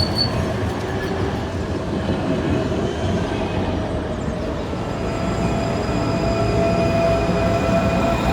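Electric tram running with a steady low rumble, its motor whine growing stronger and rising slightly in pitch about halfway through.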